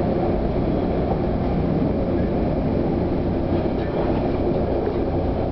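Regional train running along single track, heard from inside the driver's cab: a steady rumble of wheels, running gear and drive with faint steady tones over it.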